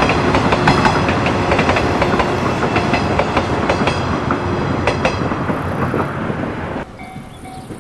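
JR 115 series electric train passing, its wheels clicking over the rail joints in a steady run of clickety-clack that fades as the train moves away. About seven seconds in the sound drops off abruptly to a much quieter background with a faint steady tone.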